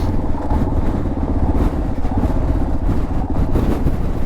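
Dirt bike engine running steadily as the bike rides down a rough trail.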